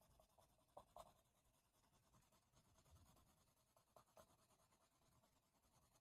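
Faint strokes of a drawing tool on paper: a few short scratches about a second in and again around four seconds, over near silence.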